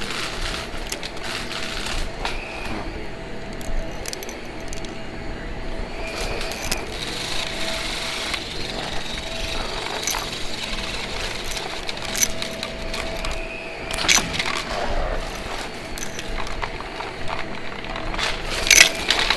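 Vacuum cleaner running steadily with a constant hum, broken by scattered clicks and knocks, the sharpest about two-thirds of the way through and near the end.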